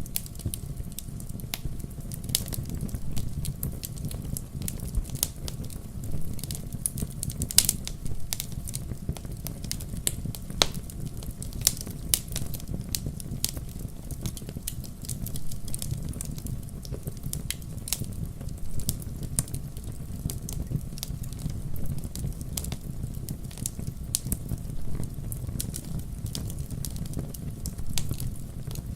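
Wood fire burning in a fireplace, with a steady low rumble of the flames and frequent irregular pops and crackles.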